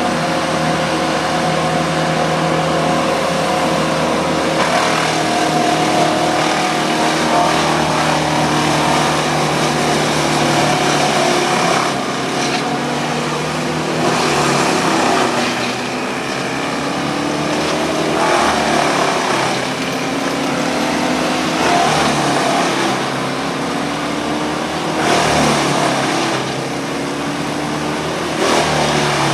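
Diesel engines of a skid steer and a Morbark wood chipper running together, engine pitch rising and falling, with about eight surges of loud grinding noise a few seconds apart as brush is fed into the chipper.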